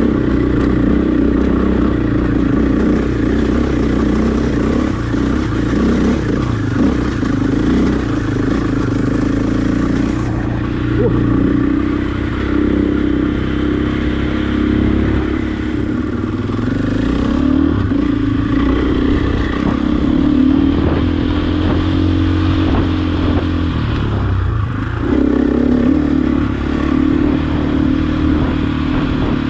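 Husqvarna dirt bike engine running steadily while riding, its note shifting with the throttle. About five seconds before the end the note dips briefly and then picks up again.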